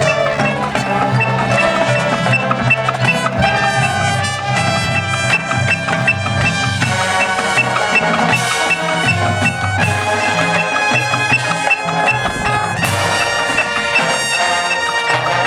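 Marching band playing: held wind and brass chords that change every few seconds over low notes and percussion, with a light tick repeating steadily through it.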